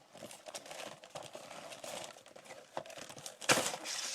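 Trading-card box packaging being handled and opened: irregular crinkling and rustling of wrapper with small clicks, with a louder rustle about three and a half seconds in.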